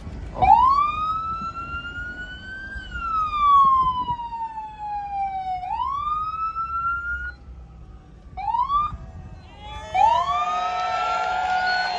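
A siren wailing: the tone sweeps up, falls slowly, then rises again and cuts off. After a short chirp it starts up once more near the end, with other noise joining in.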